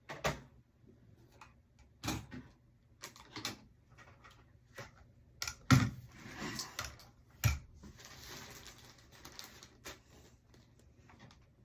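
Irregular clicks, taps and knocks of hands working at a desk, with two louder knocks about six and seven and a half seconds in and a stretch of soft rustling after them.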